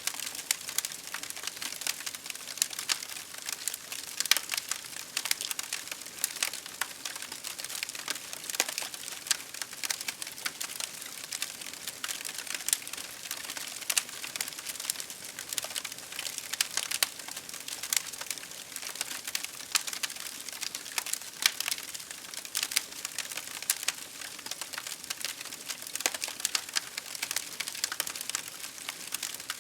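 Wood campfire crackling, with dense irregular pops and snaps over a steady hiss.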